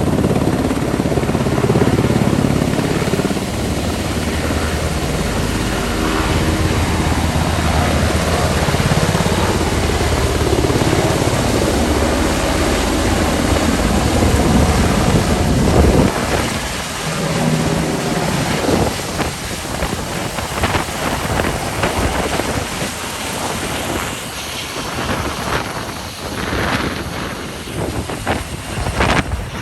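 Black Hawk helicopter rotor and engine noise, a loud steady rumble. About halfway through it turns uneven and choppy, with rapid pulsing.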